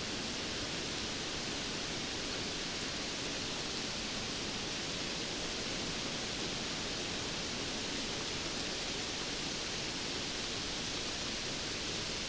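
Steady rainfall, an even hiss with no separate drops, gusts or thunder standing out.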